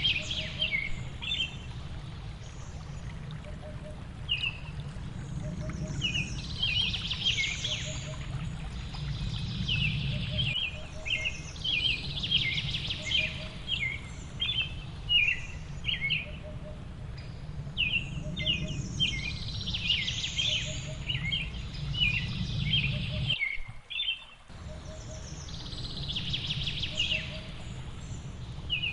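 Songbirds chirping in repeated quick bursts of short, high notes, over a steady low rush of falling water. The whole mix drops out for about a second near the end.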